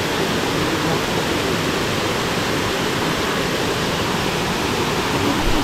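River water rushing steadily over rocks, a loud, even rush of flowing water.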